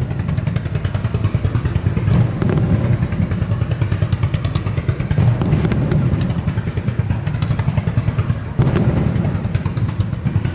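Fireworks barrage: many shells bursting in rapid succession, their dull thumps running together into a continuous rumble with crackles on top.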